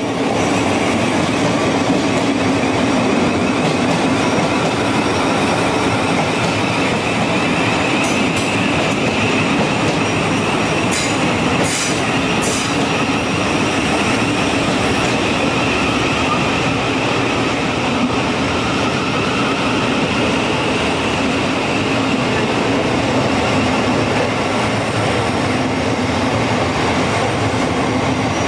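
Southeastern electric multiple unit running along the platform, a steady loud rumble of wheels on rail with a held low hum and a higher whine. A few short, sharp high ticks come about a third of the way in.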